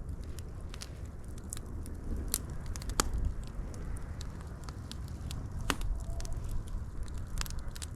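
Wood fire crackling, with irregular sharp pops and snaps over a steady low rumble of flames; the loudest snaps come about 3 and 6 seconds in.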